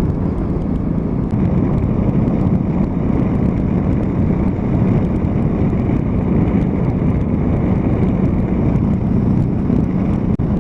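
Suzuki V-Strom V-twin motorcycle running steadily at cruising speed, its engine note mixed with wind and road noise from riding, with a brief dip in level near the end.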